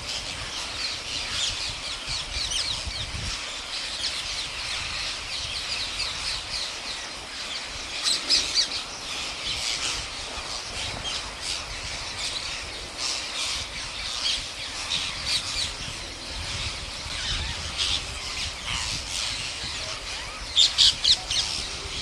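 A large flock of parrots calling at once, a constant chatter of short squawks. A few louder shrieks stand out about eight seconds in, and four close loud calls come near the end.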